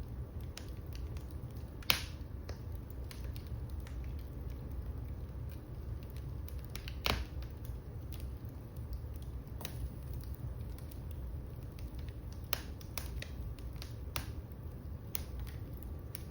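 Fire in a fireplace crackling over a steady low rumble, with scattered sharp pops; the two loudest snaps come about two seconds in and about seven seconds in.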